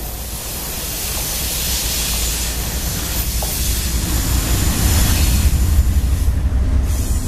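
CSX freight train passing close by: two diesel locomotives go past, then the freight cars rolling on the rails, a low rumble that grows louder toward the end.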